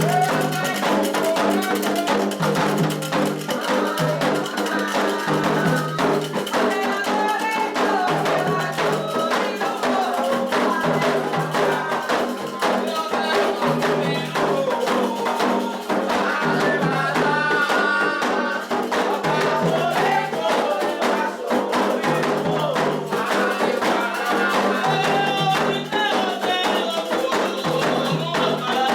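Candomblé toque for Oxossi and Ossaim: atabaque hand drums and rattling percussion played in a dense, continuous rhythm under chanted singing.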